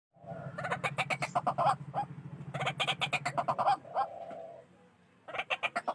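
White-breasted waterhen calling: three loud bouts of rapidly repeated harsh notes, about ten a second, the first two over a low, throbbing drone that stops near the end of the second bout.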